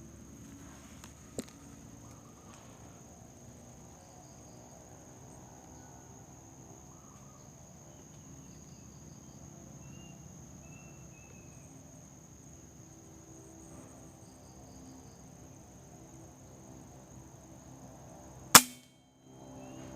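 Steady high insect buzz over a low, even hum, with a few faint bird chirps; near the end a single sharp crack of a PCP air rifle being fired.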